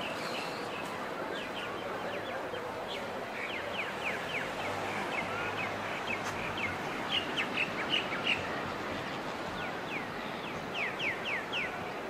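Birds chirping: quick runs of short, downward-sliding chirps that come in clusters, over a steady background hiss.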